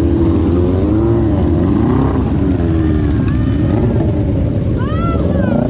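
Vehicle engines running and revving, their pitch rising and falling over a steady low rumble.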